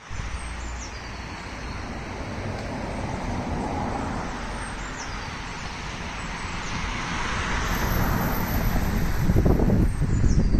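Steady road traffic noise with wind buffeting the microphone, growing louder near the end. A bird gives a short high call that falls in pitch, three times about five seconds apart.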